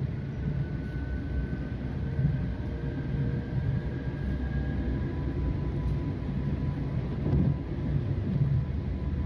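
PATCO rapid-transit train running at speed, heard from inside the car: a steady low rumble of wheels on the rails with a faint high whine that rises slightly, then gives way to a lower whine about halfway through.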